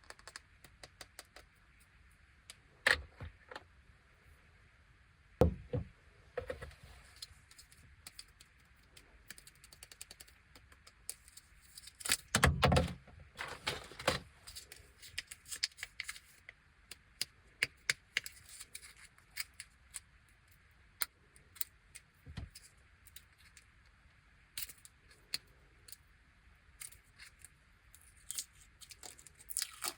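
Hands handling and opening plastic candy and jelly packaging: short crinkles and rustles with scattered sharp clicks and light knocks as pieces are set down on a plate. The busiest, loudest handling comes about halfway through.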